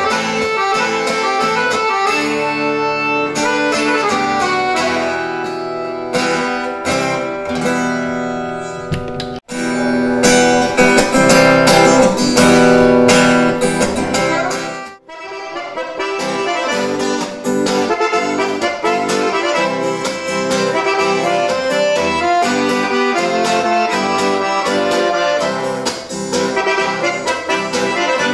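Instrumental music led by accordion with plucked guitar accompaniment. It breaks off sharply for an instant about nine seconds in, then dips about fifteen seconds in before the playing resumes with a new passage.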